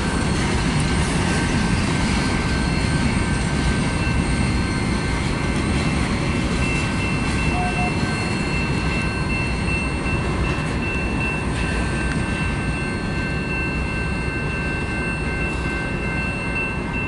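Freight cars rolling along the track with a steady rumble of wheels on rail. A few steady high whining tones ride over it, and the sound slowly fades as the end of the train moves away.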